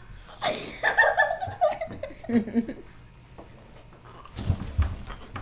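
Laughing and squealing from playful roughhousing, followed by a few low thumps of bodies or hands bumping about a second before the end.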